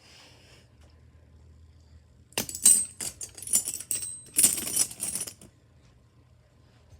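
Fidget spinners and toy cars being knocked over, clattering and clinking against each other in two short bouts, with a brief metallic ring in the first.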